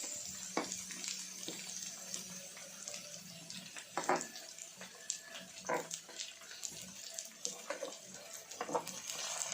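Pork sizzling on an electric grill pan, a steady hiss, with scattered short clicks and smacks of eating.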